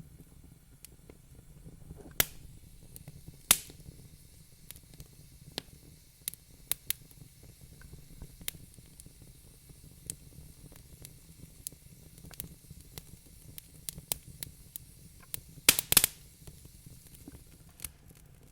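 Wood fire crackling in a fireplace: irregular sharp pops and snaps, the loudest a quick cluster about sixteen seconds in, over a low steady rumble.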